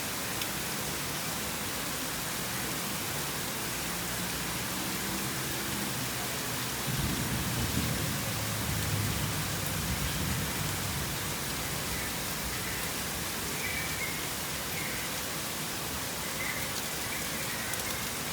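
Steady rain falling, an even hiss. A low rumble swells and fades in the middle, and faint short high chirps come near the end.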